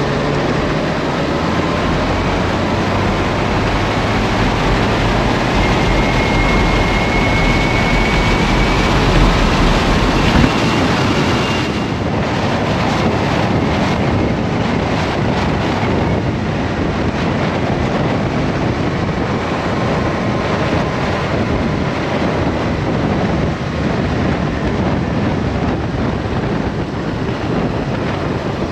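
Wind rushing over the microphone on a moving motorcycle at motorway speed, with engine and road noise underneath. A deep low rumble drops away about ten seconds in, and after that the wind noise comes in gusts.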